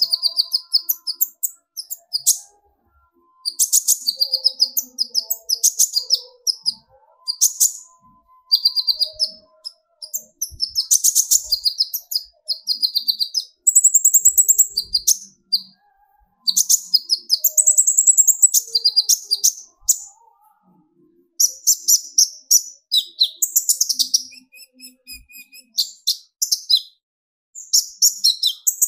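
Kolibri ninja (konin) sunbird singing its fast, agitated 'tembakan' song: bursts of rapid, very high chittering notes a few seconds long, broken by short pauses.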